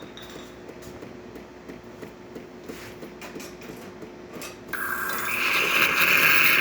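Saeco super-automatic espresso machine humming quietly with faint ticks. About five seconds in, a loud steady steam hiss starts abruptly as the milk carafe system begins frothing, here drawing water up in place of milk.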